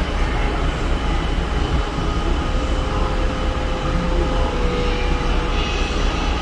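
Steady rumbling wind noise on the microphone on the open top deck of a cruise ship under way; no ship's whistle sounds here.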